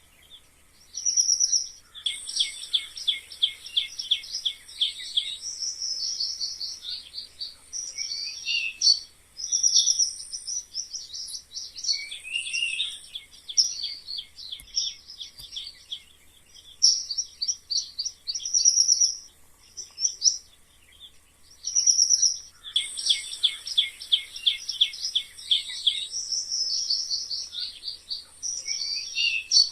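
Mice squeaking: a dense run of high-pitched chirps and fast, rattling trills, broken by short pauses.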